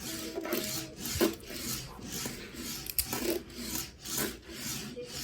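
Pencil scratching on paper in a run of short strokes, a few a second: a child writing answers in a workbook.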